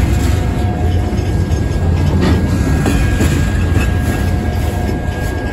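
Freight cars of a local trash train rolling past a grade crossing: a loud, steady rumble of steel wheels on rail, with a couple of clanks about two and three seconds in and a thin, steady high tone.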